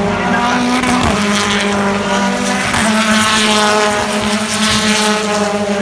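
British Touring Car Championship race cars' turbocharged four-cylinder engines running hard at high revs, the engine notes rising and dipping slightly as the cars go by.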